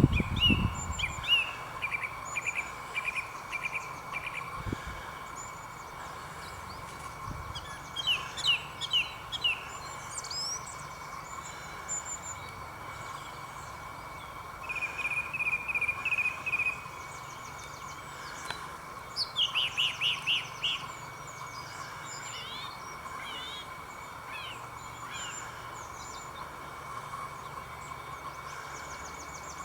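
Wren and thrush singing: separate bursts of quickly repeated high notes, loudest a third of the way in, just past the middle and towards the end, with scattered single notes between. A steady faint high tone runs underneath, and a brief low thump comes at the very start.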